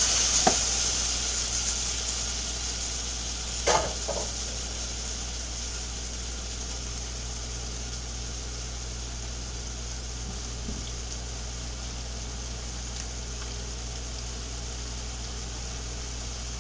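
Steady sizzle of food frying in skillets on a stovetop, loudest at first and settling to an even hiss, with two short clanks, one about half a second in and a louder one just under four seconds in.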